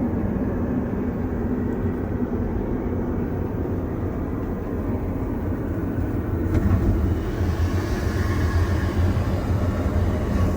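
Steady rumble and hiss of an Airbus A321neo's cabin in flight. The sound turns hissier about two-thirds of the way in.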